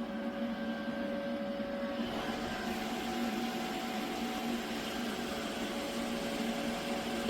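Robot vacuum running: a steady motor whir with a constant hum and hiss.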